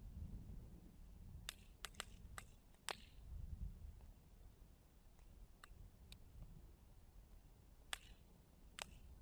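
Wood fire crackling: sharp pops and snaps, a quick cluster of five in the first few seconds and two more near the end, over a low, soft rush of flame.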